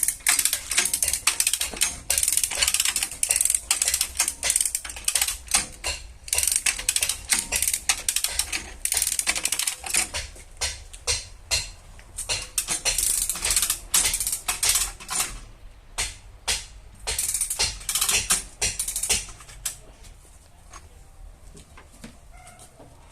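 Rapid light metallic tapping and clicking on a car's sheet-metal body panel, several strikes a second, thinning out and stopping near the end.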